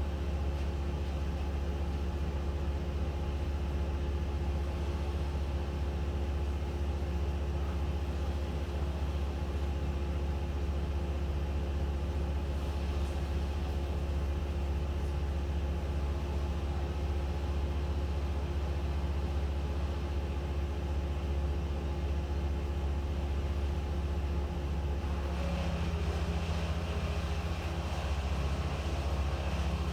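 An engine running steadily with a low hum. About 25 seconds in its sound shifts, becoming brighter and rougher.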